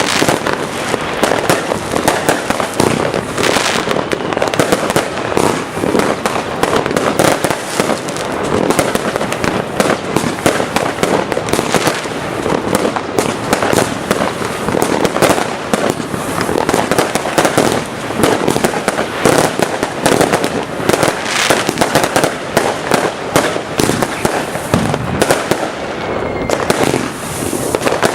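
Firework cake (Jigsaw 'Enemy Ambush', 63 shots) firing a rapid, continuous barrage of shots and crackling bursts.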